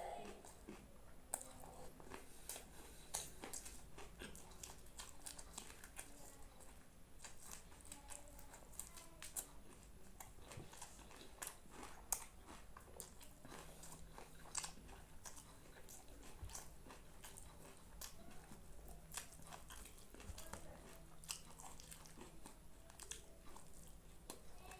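A person chewing and biting food, with many small irregular clicks and crunches.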